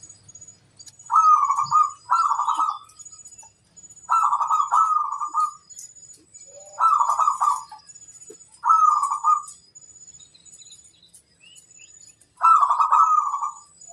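Zebra dove (perkutut) cooing: loud, trilled coo phrases repeated in pairs every few seconds, with a faint high-pitched chirping behind.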